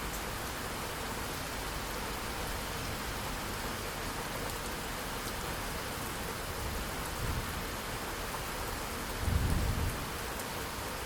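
Steady rain falling with a continuous hiss and fine drop ticks. There is a brief low thunder rumble about seven seconds in and a louder, short rumble of thunder near the end.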